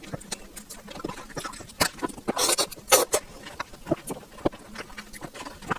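Close-up wet chewing and mouth smacking of soft, juicy sugar apple (custard apple) flesh: many short wet clicks, with a couple of longer sucking noises about two and a half to three seconds in.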